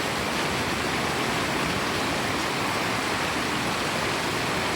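Rain pouring down, a steady even hiss with no breaks.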